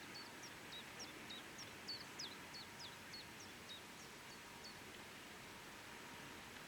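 A small bird singing a quick run of short, high, falling notes, about three a second, stopping a little before five seconds in, over a faint steady background hiss.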